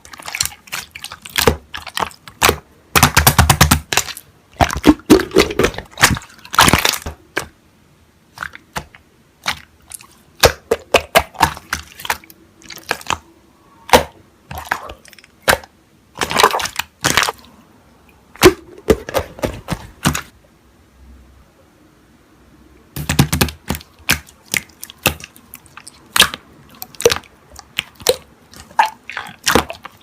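Slime being squeezed, folded and pressed by hand, making irregular runs of sharp clicks, pops and crackles, with a short quieter pause about two-thirds through.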